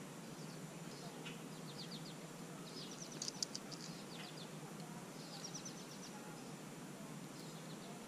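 Small songbirds chirping in quick runs of short, high notes, a few times over several seconds, the loudest run about three seconds in. Beneath them is faint, steady outdoor background noise.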